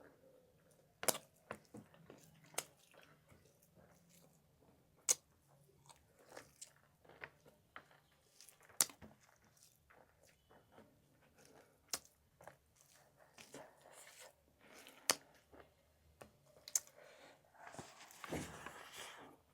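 Close-miked chewing and biting of chicken curry and fried eggs: soft, wet mouth noises broken by a sharp click every few seconds. Near the end there is a longer, louder noisy stretch of about a second.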